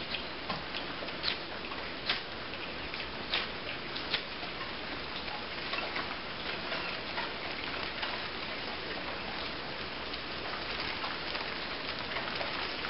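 Heavy rain pouring steadily onto a hard surface, with a few sharp clicks or taps in the first four seconds.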